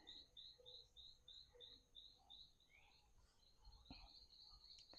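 Near silence with faint, evenly repeated high chirps, about three a second, from a small creature, and two soft clicks near the end.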